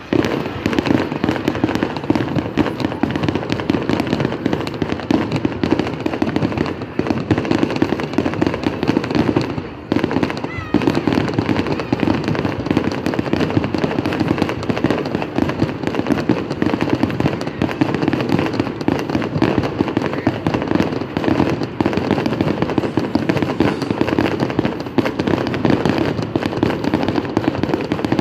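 Fireworks display going off in a dense, continuous barrage of bangs and crackles, with a brief lull about ten seconds in.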